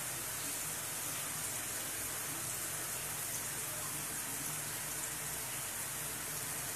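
Onion and curry spice paste sizzling steadily in oil in a frying pan, being sautéed until the oil separates, with a low steady hum underneath.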